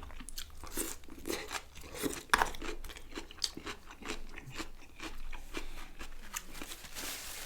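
Close-miked chewing of chicken kebab and salad, with irregular crunching and wet mouth clicks.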